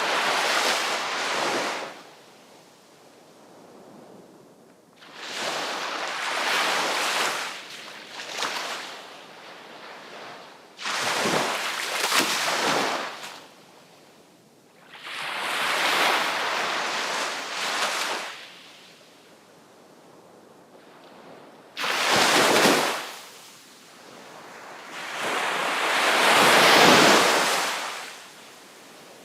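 Sea waves breaking and washing up the shore in about six surges, each swelling and then fading into a quieter gap. One crash comes in suddenly about two-thirds of the way through, and the loudest wave builds near the end.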